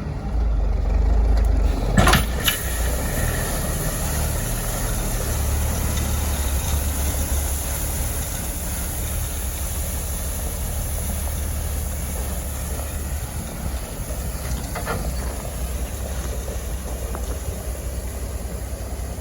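Dump truck's engine running with a steady low rumble as it spreads a load of gravel. A sharp clank comes about two seconds in, and a fainter one near the end.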